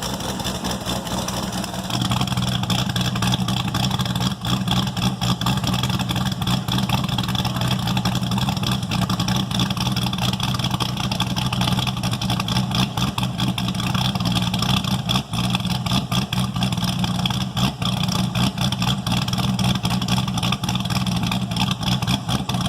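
Cammed LS7 V8 of a 2010 Corvette Z06 idling steadily through freshly fitted factory mufflers.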